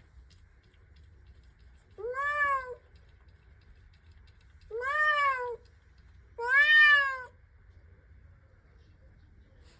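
Domestic cat meowing three times, each call rising and then falling in pitch, the third the loudest: the repeated calls of a cat wanting to go outside.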